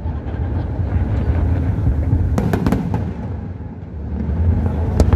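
Aerial fireworks display: a steady low rumble of distant shell bursts, broken by a quick cluster of sharp cracks about halfway through and one more crack near the end.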